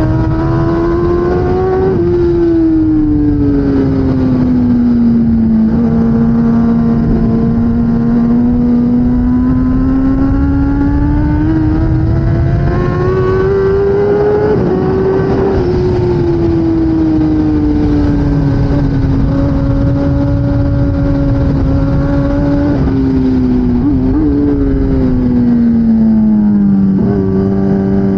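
A 2016 Kawasaki ZX-10R's inline-four engine at racing speed, its revs rising and falling through the corners. Near the end the engine pitch jumps in short steps, as on quick downshifts.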